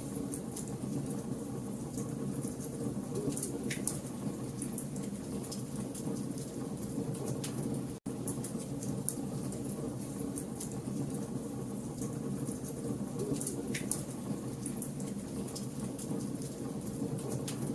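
Campfire of burning logs crackling, with frequent small sharp pops over a steady low rush of flame. The sound cuts out for an instant about eight seconds in.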